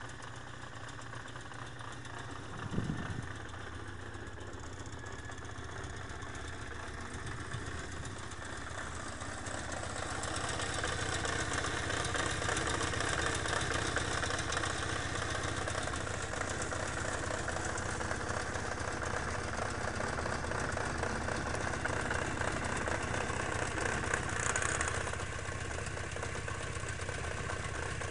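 Yamaha XJ600S Diversion's inline-four engine idling with a knock from the right side: the clutch-basket rattle that Diversion owners know well. The sound grows louder about ten seconds in, and there is a short thump about three seconds in.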